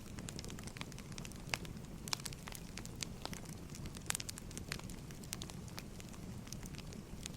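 Firewood burning with irregular sharp crackles and pops over a steady low rumble of the flames.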